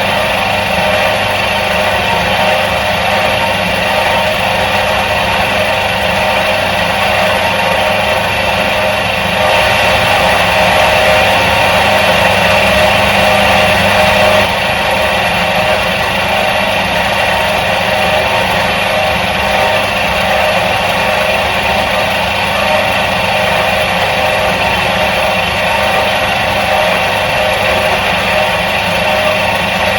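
Electric motor of a 1977 Soviet washing machine running steadily with a constant hum. It grows slightly louder for a few seconds near the middle, then drops back suddenly.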